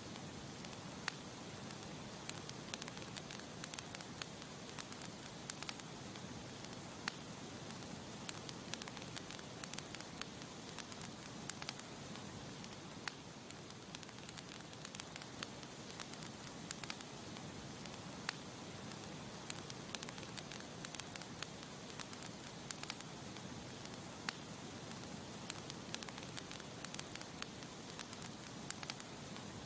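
Campfire burning and crackling: a steady soft hiss with many sharp, irregular pops and snaps.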